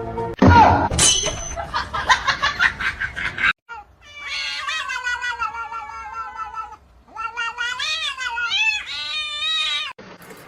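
Cat yowling: two long, wavering drawn-out calls in the second half, after a loud, rough, noisy burst in the first three seconds.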